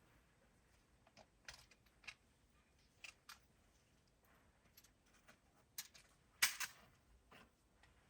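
Scattered light clicks and taps, with a louder cluster of clicks about six and a half seconds in.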